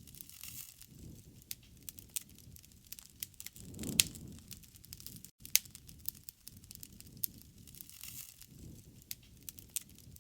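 Wood fire crackling, with irregular sharp pops over a low rushing sound that swells and fades; the loudest pops come about four and five and a half seconds in.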